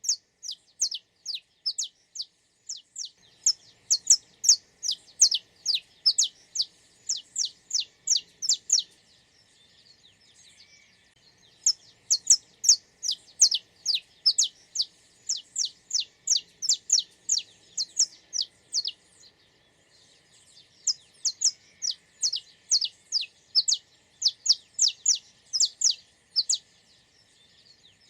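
A songbird singing three long phrases of quick, sharp, high notes that each slide downward, about three to four notes a second, with short pauses between the phrases.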